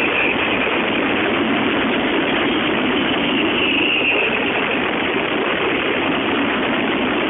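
Fireworks finale barrage: shells bursting so fast that the explosions blur into one continuous dull roar on a mobile phone's microphone, with a high whistle gliding down about four seconds in.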